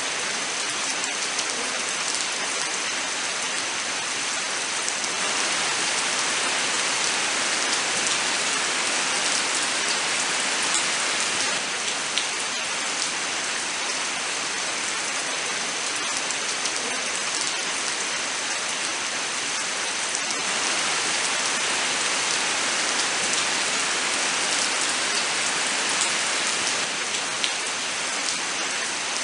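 Steady rain falling in a forest: a dense, even hiss with scattered sharper drop ticks and slight swells in strength. A faint steady high tone sits under it.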